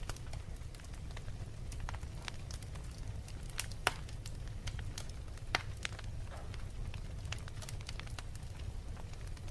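Wood fire crackling: irregular sharp pops and snaps, two louder ones about four and five and a half seconds in, over a steady low rumble of the flames.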